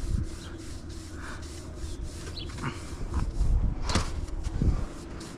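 Scattered light knocks and rubbing, with low rumbling thumps and a sharper knock about four seconds in.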